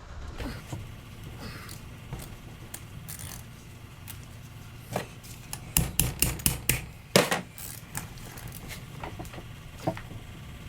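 Hammer tapping on the metal of a jumping-jack rammer on the bench, scattered light clinks and then a quick run of about eight sharp metal knocks a little past the middle, one louder than the rest. The taps are an attempt to jar a stuck part loose.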